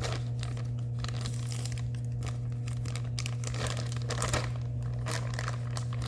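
Plastic packaging of a diamond painting kit crinkling and rustling as it is handled and opened, in quick irregular bursts, over a steady low hum.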